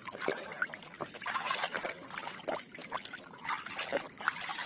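Water splashing and trickling, with irregular drips and plops, as muddy plastic toys are rinsed in water.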